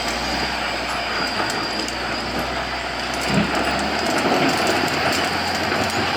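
Volvo L120F wheel loader working, its diesel engine running with a steady rumble and rattle, a single knock about three and a half seconds in, and the noise growing louder from about four seconds.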